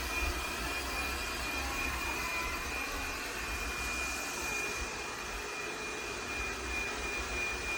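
Robot vacuum cleaner running steadily: an even rushing hiss of the suction motor with a constant high-pitched whine.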